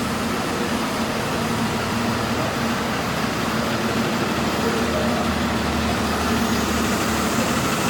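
Steady mechanical drone of running machinery, with a constant low hum that grows a little stronger past the middle.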